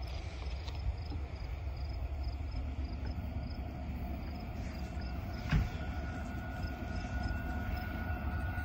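Distant approaching freight train: a low, steady rumble. A single sharp knock comes about five and a half seconds in.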